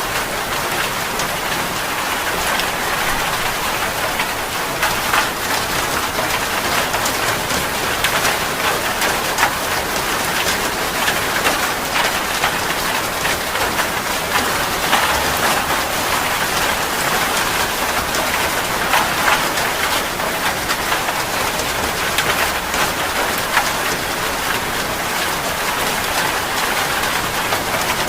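Steady heavy rain falling on a surface, a dense even hiss with many fine drop patters.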